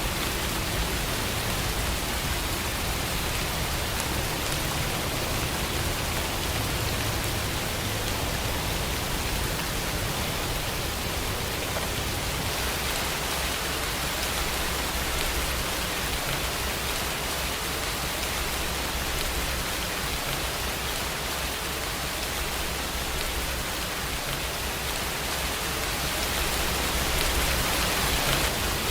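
Steady heavy rainfall, an even hiss of falling rain, swelling slightly near the end.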